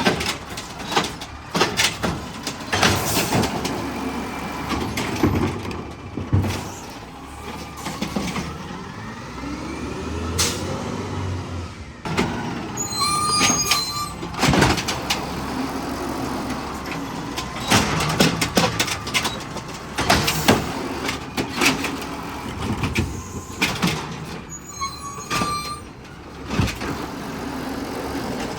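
Garbage truck working its route: the engine drones and rises and falls under the hydraulic lift, with many sharp bangs and clatters of carts being tipped and emptied. Two short high tones sound, one about halfway and one near the end.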